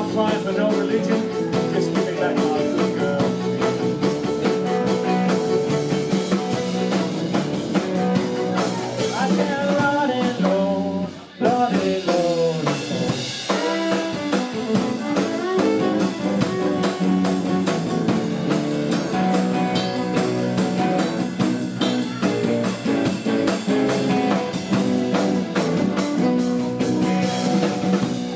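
A blues band playing live: guitar over a drum kit, with sliding notes and a brief drop in level about eleven seconds in.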